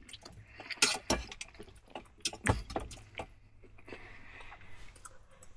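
A few sharp clicks and knocks of a utensil and cookware being handled, over a faint steady low hum.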